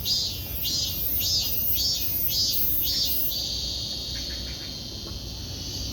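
Insects chirping: high buzzy chirps about twice a second, turning into one steady trill a little past halfway.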